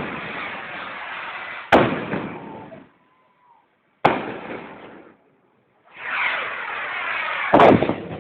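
Fireworks going off: three sharp bangs, each trailing off into crackling noise. A rushing hiss swells for about a second and a half before the loudest, last bang.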